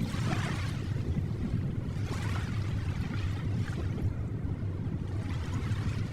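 Ocean waves: a steady low rumble of surf with hissing washes that swell and fade every second or two.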